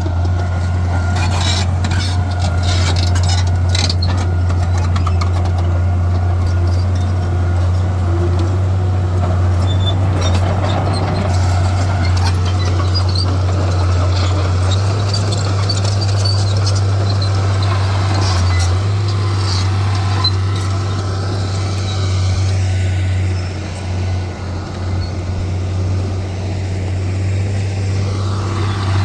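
Heavy diesel earthmoving machinery running steadily with a deep drone. A run of clanks comes in the first few seconds, and the engine note dips briefly about 24 seconds in.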